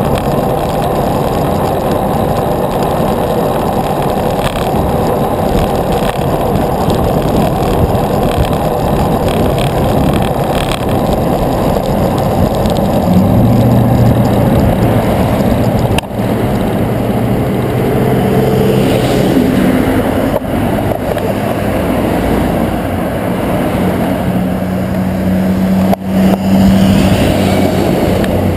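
Steady rushing road and wind noise while riding a bicycle, with the low hum of motor vehicle engines close by from about halfway through and again near the end.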